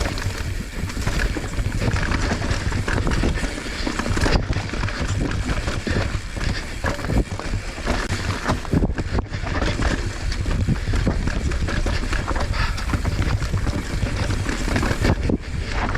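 Mountain bike descending a rocky technical trail, heard from a bike-mounted action camera: wind buffeting the microphone over tyres on rock and dirt, with frequent knocks and rattles from the bike.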